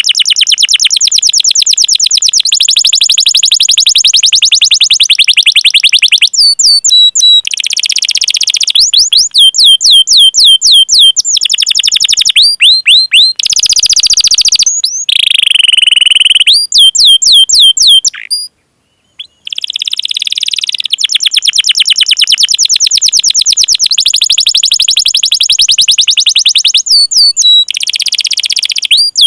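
Domestic canary singing: long, very fast rolling trills alternating with runs of quick downward-sweeping 'cuit cuit' whistled notes, broken by a brief pause about two-thirds of the way through.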